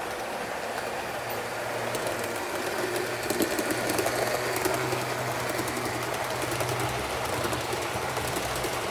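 HO-scale Lima E 10 model electric locomotive running with its train of model sleeping cars: a steady motor hum with the wheels rattling and clicking on the track. It gets louder about three seconds in.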